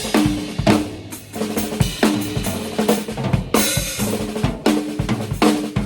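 Drum kit played in a groove: kick drum, cymbals and a snare with a fat, ringing tone struck repeatedly.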